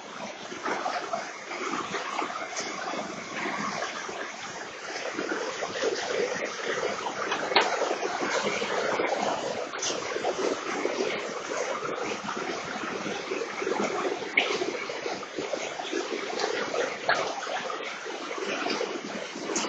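Steady rushing and splashing of floodwater and heavy rain, with scattered small splashes and clicks.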